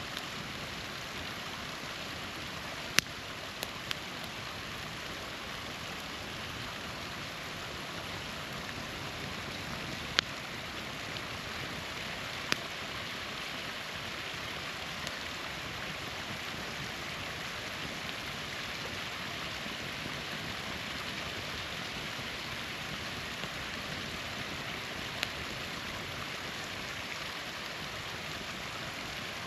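Steady rushing of a small waterfall, with a few sharp pops and crackles from a wood campfire, the loudest about three seconds in and again around ten and twelve seconds.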